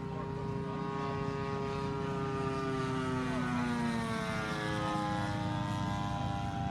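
Radio-controlled model airplane flying past, its engine and propeller note sliding down in pitch about halfway through as it goes by, then rising again.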